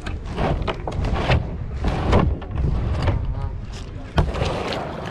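Kayak paddle strokes splashing in the water at an irregular pace, with wind buffeting the microphone as a low rumble throughout.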